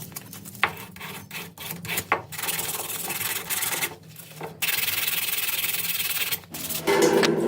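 Abrasive rubbing on the rusty metal parts of an AK-47: irregular scrubbing strokes, then about two seconds of steady rubbing. Water starts running just before the end.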